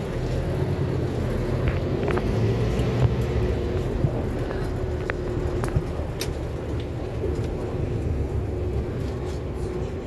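Inside a Scania K280UB4 city bus under way: the diesel drivetrain's steady low drone with a steady whine over it, and a few small rattles and clicks from the cabin scattered through.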